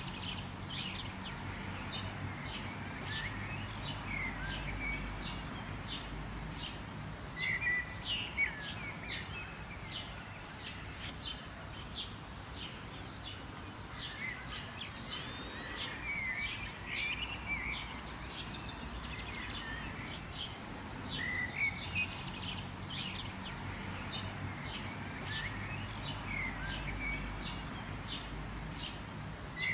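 Birds chirping and calling continuously, many quick high chirps overlapping, with a few longer warbled phrases recurring every several seconds. A steady low rumble runs underneath.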